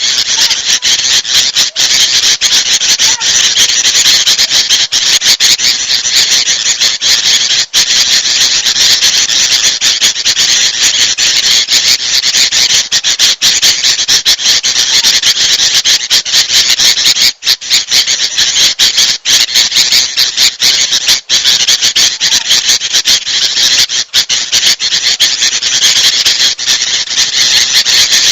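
Loud, unbroken chatter of agitated bulbuls: sooty-headed bulbul (kutilang) calls layered with kutilang emas calls into a dense, high-pitched squealing racket, played as a lure to draw small birds.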